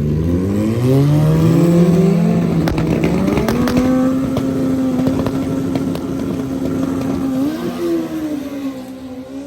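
Two drag-racing motorcycles, one a Suzuki Hayabusa, launching and accelerating hard down the strip. The engine pitch climbs in steps through the gear shifts, then holds high and steady with a few sharp pops, and fades away near the end as the bikes get further off.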